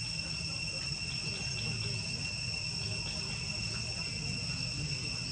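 Steady high-pitched insect drone with no break, over a low rumble.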